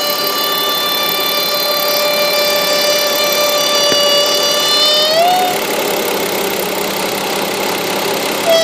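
High, steady whine or whistle from the hose and plastic elbow on top of a 2005 Mazda MPV's running V6 engine, heard over the idling engine. About five seconds in, the whistle rises in pitch and cuts off as the hose is kinked, leaving only the engine running. It returns near the end.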